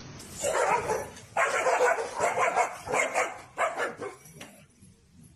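A dog barking in a string of short barks and yips, dying away about a second before the end.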